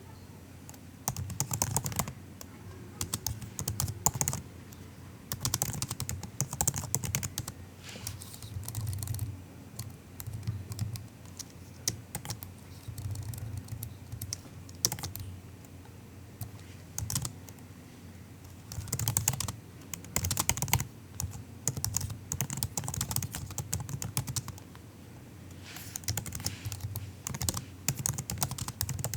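Soft typing on a MacBook's laptop keyboard: quick runs of light key clicks in bursts of a second or two, broken by short pauses.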